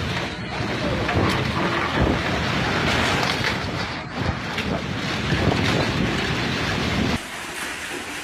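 Storm wind blowing hard and buffeting the microphone in gusts. The sound drops suddenly to a quieter rain-like hiss about seven seconds in.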